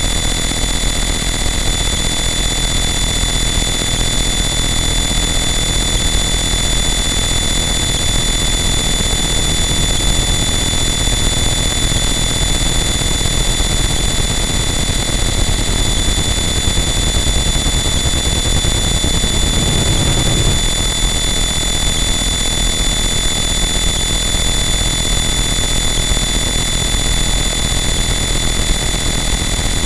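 Harsh noise wall: a loud, dense, unchanging wall of distorted noise with steady high whining tones held on top. A brief low surge swells up about twenty seconds in, then the wall carries on unchanged.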